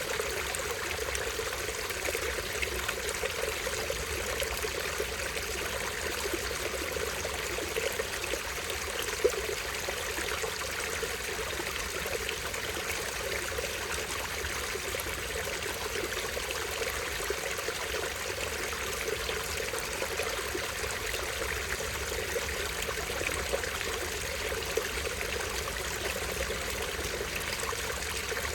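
Small stream trickling and splashing over a tiny waterfall, a steady rush of water with no break.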